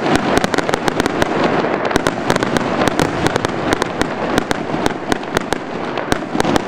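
Fireworks going off: a dense, irregular run of sharp cracks and pops, several a second, over a continuous hiss of burning, sparking fireworks.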